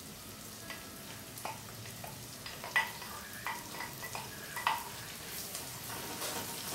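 Diced calabresa sausage, onion and freshly added grated carrot sizzling in a stainless steel pot while a wooden spoon stirs them, with several sharp knocks against the pot, the loudest about three seconds in.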